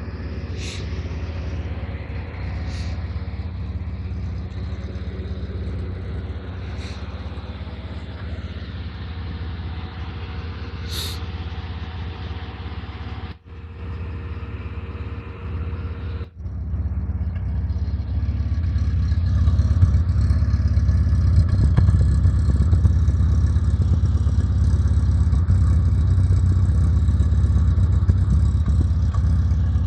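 Fiat Uno engine running with a steady low rumble, which the owner questions as a 'roncando' noise. It gets louder and fuller a bit past halfway through, and a few short high chirps sound in the first half.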